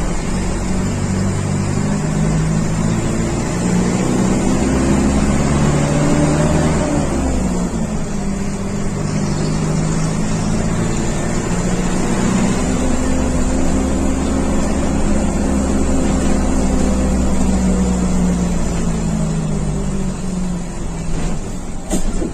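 Mercedes-Benz OF 1721 bus's six-cylinder diesel engine pulling under way. Its pitch climbs, drops sharply about seven seconds in as at a gear change, then climbs again and holds before easing off near the end.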